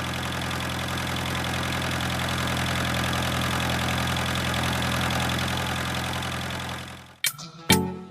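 Diesel tractor engine idling steadily with an even, unchanging beat, then cutting off about seven seconds in as music starts.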